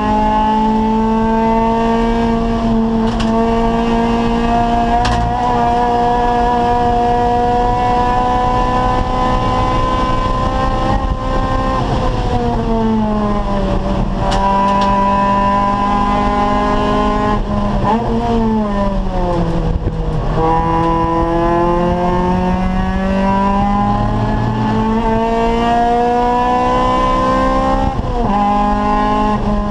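Acura Integra Type R race car's VTEC four-cylinder engine under hard driving. The engine note climbs slowly with the revs and falls away three times as the car brakes and downshifts for corners.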